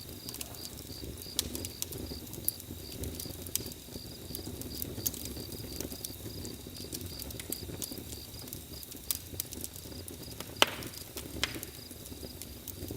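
Campfire burning with irregular crackles and pops over a low rumble, one louder pop late on, while crickets chirp in an even rhythm.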